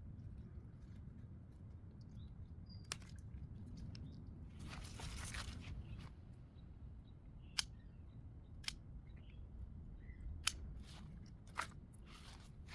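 Garden scissors snipping, about five sharp single snips a second or two apart, with a short rustle about five seconds in. Faint bird chirps are heard as well.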